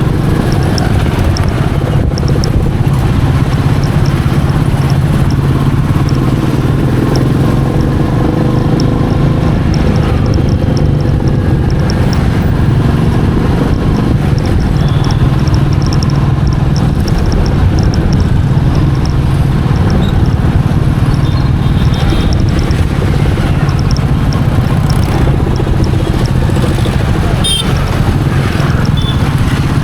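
Royal Enfield Meteor 350's single-cylinder engine and exhaust running steadily while the bike is ridden at an even pace.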